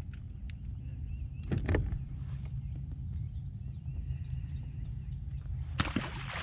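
Outdoor river ambience heard from a boat: a steady low rumble with faint bird calls above it. A few knocks come about a second and a half in, and a louder rustle with knocks comes near the end.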